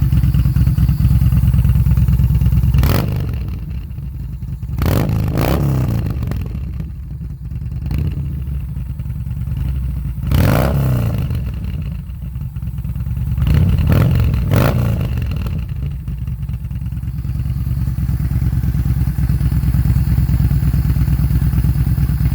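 2018 Yamaha Bolt's V-twin with a Bassani slash-cut exhaust idling and blipped several times, with a few sharp pops as the throttle closes: the afterfire that Bolts are known for.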